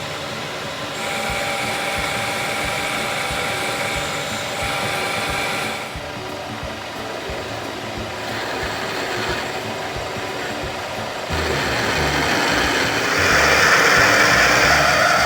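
CNC machine spindle running and milling POM (acetal) plastic: a steady machine whine with a cutting hiss that shifts in steps several times as the cut changes, getting louder and hissier near the end.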